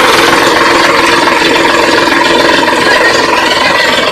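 Sonalika DI 740 tractor's diesel engine running steadily, with a loose rattle.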